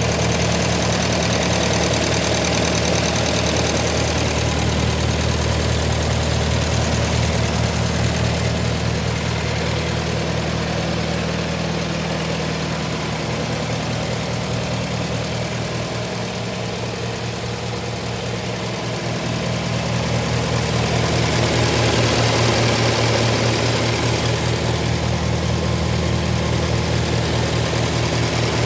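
1949 McCormick Farmall C's four-cylinder gas engine running steadily at idle, with an even, rapid exhaust pulse. It gets a little quieter around the middle and louder again over the last several seconds.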